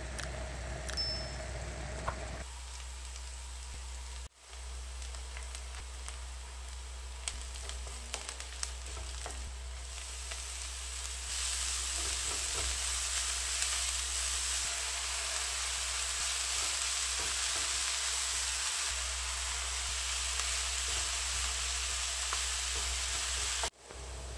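Oil sizzling in a nonstick frying pan: eggs frying at first, then chopped spinach, onion and garlic sautéing, with a few light taps of a wooden spoon as it is stirred. The sizzle gets louder about halfway through.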